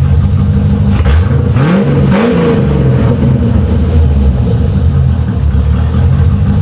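1985 Corvette C4's 5.7-litre V8 exhaust idling, with one quick rev about a second in: the pitch climbs and falls back to idle within about two seconds.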